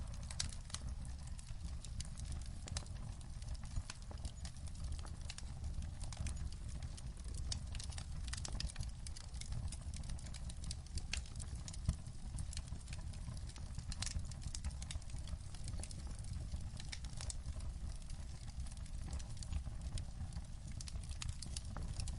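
Wood fire crackling in a fireplace: irregular sharp pops and snaps, scattered all through, over a steady low rumble.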